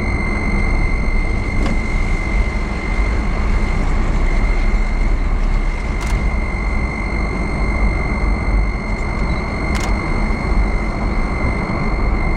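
Steady road and running noise from a moving vehicle, heavy in the low end, with a constant thin high whine over it.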